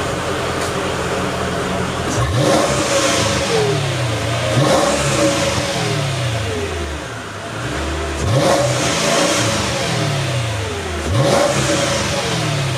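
2004 Mercedes-Benz SL500's 5.0-litre V8 idling, then revved four times, each blip rising quickly in pitch and falling back toward idle.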